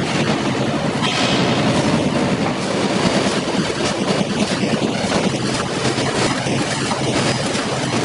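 Automatic wire mesh welding machine running, a continuous mechanical clatter with many rapid knocks.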